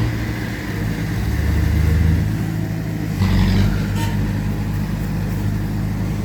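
Heavy diesel earthmoving machinery engine running under load. It swells about a second in and again with a rougher burst around three seconds in, and there is a single sharp clank about four seconds in.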